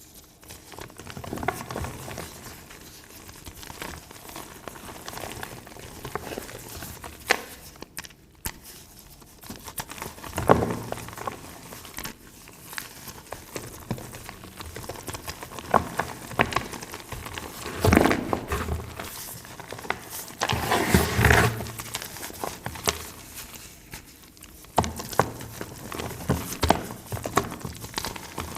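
Reformed gym chalk being crushed, giving dusty, crumbling crunches and crackles in irregular bursts, with a few louder crunches partway through.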